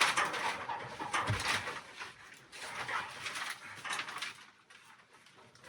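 Hand saw cutting through a wooden roof beam to shorten it, rasping strokes about one a second that thin out toward the end, with a single low thump about a second in.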